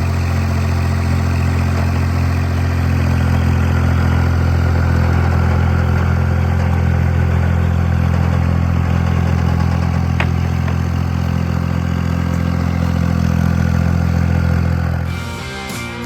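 An engine running steadily at idle, a loud, deep, even drone. It stops near the end as guitar music comes in.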